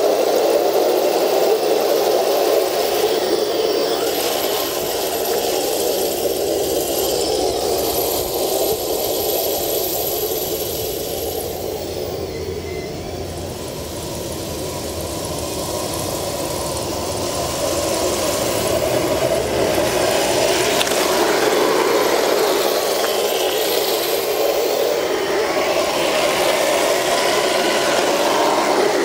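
Radio-controlled Leopard model tank running: a steady mechanical drive sound with some rattle. It eases off a little around the middle and builds back up after.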